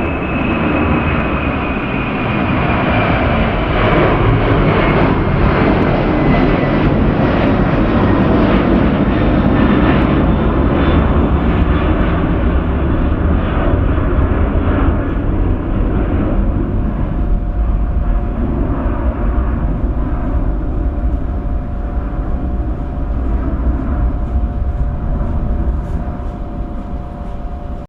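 Boeing 767-300ER jet airliner's twin turbofan engines at high power during its takeoff departure: a steady, loud jet roar with a high whine that falls in pitch over the first ten seconds or so as the aircraft goes by, easing slightly near the end.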